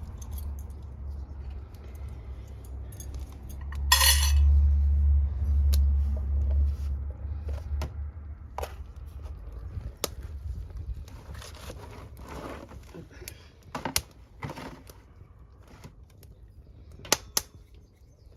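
Metal cookware and utensils clinking and knocking: scattered sharp clinks, with a louder clatter about four seconds in, over a low rumble that fades after about seven seconds.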